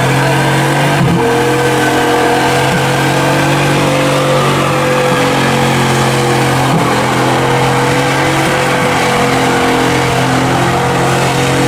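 A vehicle engine held at steady high revs after revving up just before, its pitch holding nearly level with a slight wobble.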